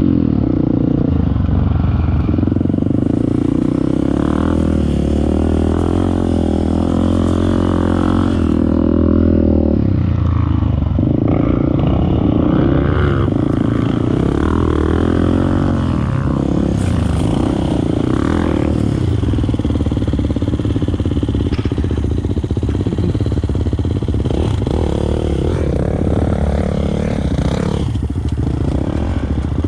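Off-road motorcycle engine running under load and revving, its pitch rising and dropping again and again as the throttle is opened and closed.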